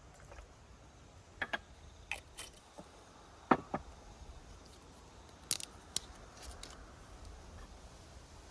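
A string of separate sharp clicks and light knocks, as of small objects being handled and set down. The loudest comes about three and a half seconds in.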